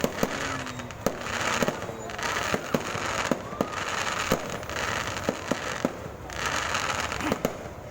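Fireworks and firecrackers going off: a string of sharp bangs, several a second, over waves of crackling hiss that swell and fade.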